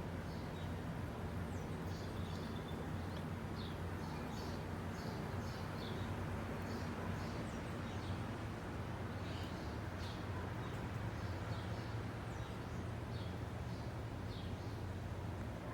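Small birds chirping repeatedly in short high calls over a steady background hiss and low hum.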